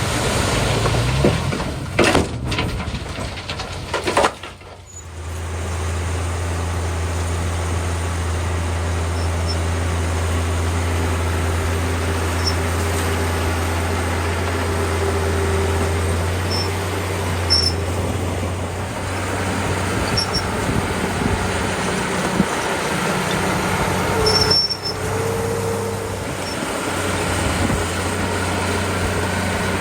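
Diesel engine of a small Komatsu D31P crawler bulldozer running steadily under work. Several metallic clanks come in the first few seconds, with a few faint short squeaks later on.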